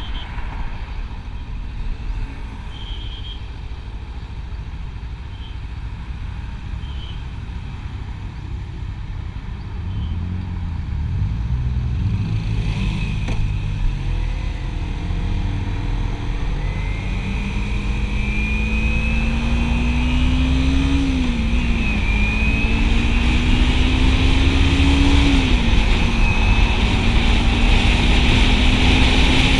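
Motorcycle engine running steadily and then accelerating through the gears in the second half, its pitch climbing and dropping at each of about three upshifts, over wind rush. It grows louder as it picks up speed.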